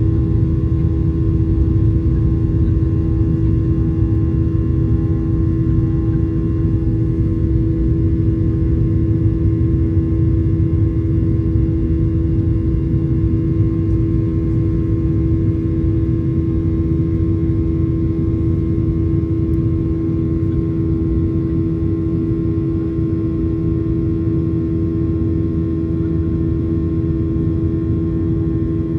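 Cabin noise inside a Boeing 737-800 with CFM56-7B turbofan engines: a steady low rumble of engines and airflow, with a constant hum running through it.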